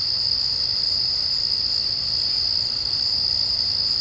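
Dense chorus of singing insects: one steady, unbroken, high-pitched trill.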